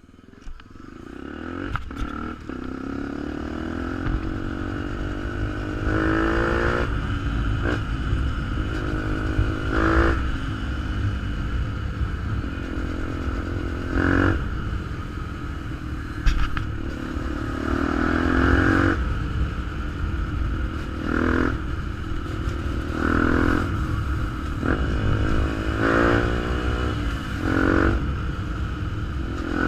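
Fantic 125 supermoto motorcycle's single-cylinder engine with a GPR exhaust, running steadily and revved in about eight short throttle blips. Each blip rises in pitch and then falls back to idle.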